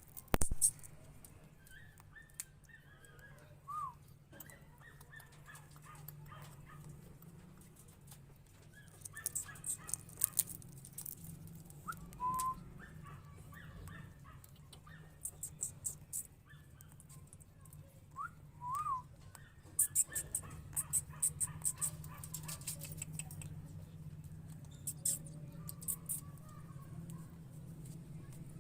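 Alexandrine parakeets giving a few short whistled calls that rise and fall, with soft chattering between them. Bursts of sharp, high clicks come and go over a steady low hum.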